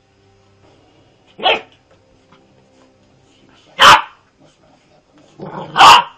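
Dog barking three times, single sharp barks about two seconds apart, with a short lower sound just before the third.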